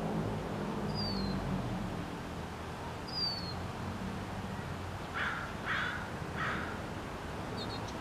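Bird calls: two short, thin, high whistles falling in pitch, about a second and about three seconds in, then three harsh caws in quick succession, each about half a second apart, over a low steady background hum.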